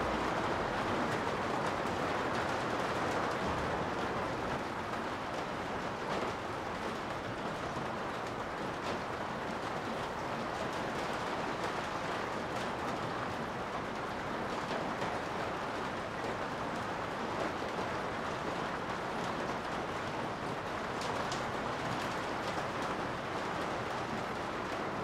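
Steady rain heard from inside a garage: a constant, even hiss with a few brief ticks of drops.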